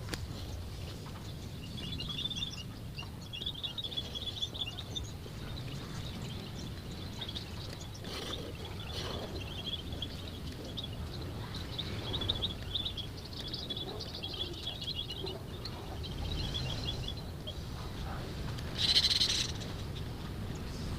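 Birds chirping in repeated quick chittering trills over a steady low background rumble, with one short louder burst near the end.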